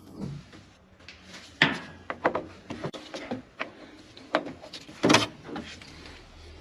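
A series of irregular knocks and clunks, with two louder strikes about one and a half and five seconds in.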